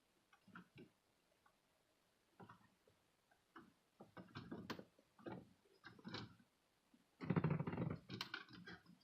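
Scattered clicks, taps and rubbing from plastic dashboard trim and parts being handled and pried, with a longer, louder stretch of handling near the end.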